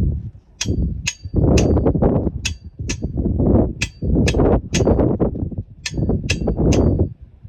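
Sharp metallic clinks, about a dozen at an uneven pace of roughly two a second, each with a short ring. Between them is duller scraping and handling noise as tools work on a BMX bike's metal parts.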